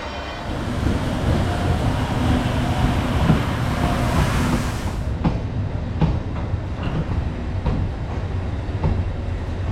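An EF64 electric locomotive and its train running along the track: a steady rushing rumble that turns duller about halfway through, after which the wheels knock over rail joints again and again.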